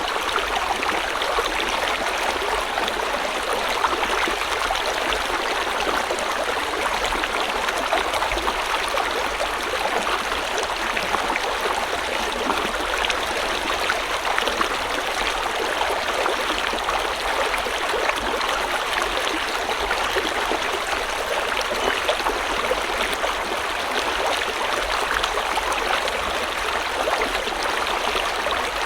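River water flowing and splashing steadily, a dense even rush with fine babbling detail and no breaks.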